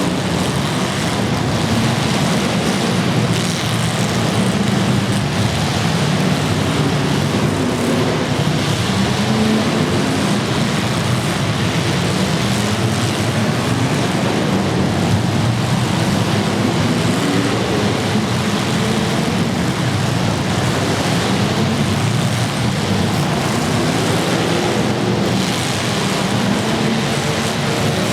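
Several demolition derby cars' engines running at once, a loud, dense mass of engine noise whose pitch keeps wavering up and down as the drivers rev.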